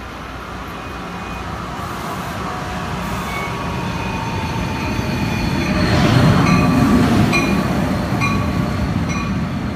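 Electric commuter trains running through a station: a steady rumble of wheels on rail that grows louder to a peak about six seconds in. Short, repeated squeaky tones come near the end.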